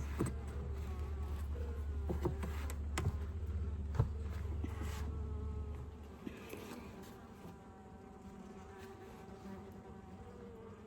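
Honeybees buzzing around an open hive, a steady hum, with a few sharp knocks in the first seconds. A heavy low rumble stops about six seconds in, leaving the buzzing quieter.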